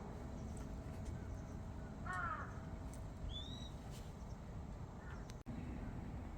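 A crow cawing once, about two seconds in, over a steady low outdoor background, followed a second later by a shorter, higher bird call.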